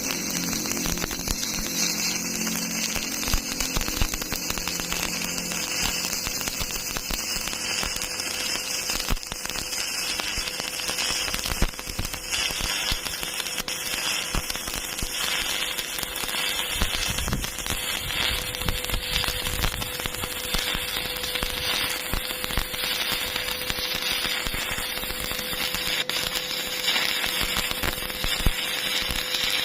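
Electric arc welding: the arc crackling and sputtering steadily in a continuous run.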